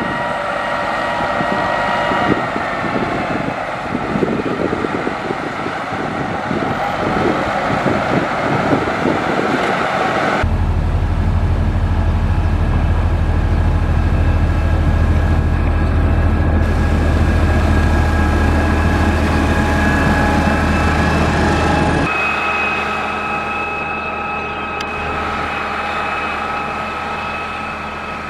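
Diesel engine of a heavy motor grader running under work, in three stretches that change abruptly about ten seconds in and again about twenty-two seconds in: a crunching, whining passage, then a strong low rumble, then a steadier engine hum with a faint high whine.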